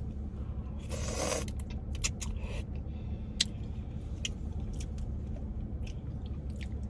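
Close-miked eating: scattered small mouth clicks and chewing over the steady low hum of a car cabin, with a short rush of noise about a second in.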